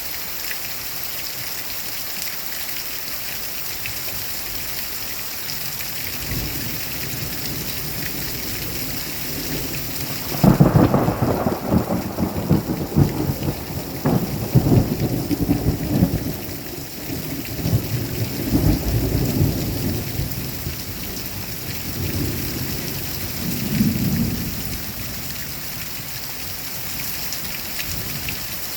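Thunderstorm: steady rain hissing, with a low thunder rumble building about six seconds in. A sudden loud thunderclap comes about ten seconds in, followed by rolling rumbles that die away, then a last smaller swell of rumble near the end.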